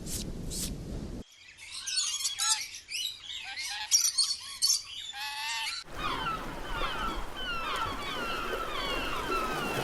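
Birds chirping in two separate stretches that start and stop abruptly: first a quick jumble of high chirps and squawks, then a steady chorus of many short chirps, each falling in pitch.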